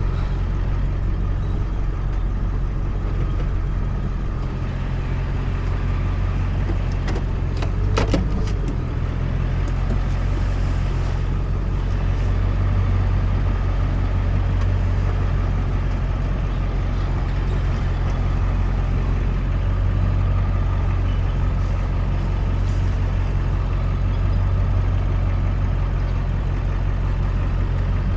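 Truck engine running steadily as the truck is reversed, a constant low drone, with a brief high squeak about eight seconds in.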